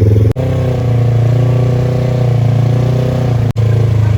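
Vehicle engine running steadily, a deep pitched drone with fast firing pulses; it cuts out briefly twice.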